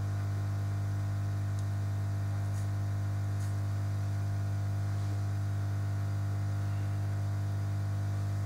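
Steady electrical mains hum with a faint hiss, the level unchanging throughout.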